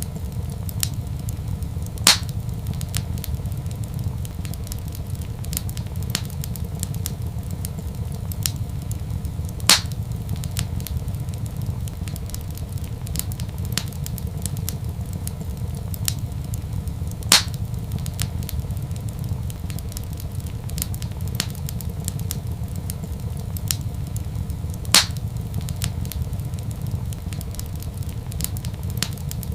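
Wood fire crackling over a steady low rumble, with many small ticks and four loud, sharp pops evenly spaced about seven and a half seconds apart.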